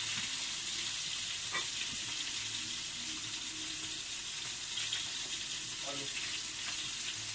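Food sizzling in a pan: a steady hiss, with two light clicks of a utensil, one about a second and a half in and one near six seconds.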